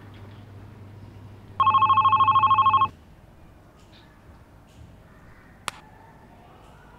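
Mobile phone ringing: one trilling electronic ring lasting just over a second, about a second and a half in. A single sharp click follows a few seconds later.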